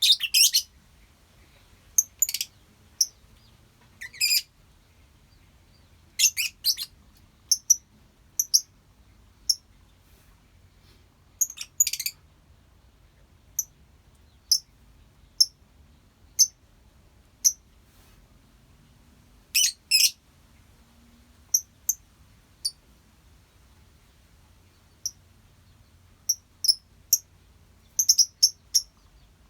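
A colony of lovebirds chirping: short, high-pitched chirps about every second, now and then in quick runs of several.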